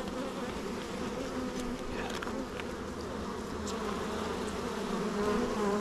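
Honeybees buzzing steadily around an open hive as frames are pulled, a continuous hum, with a few faint clicks.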